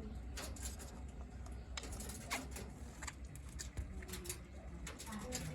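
Budgerigars chattering faintly: scattered short chirps and clicks, several a second, over a steady low hum.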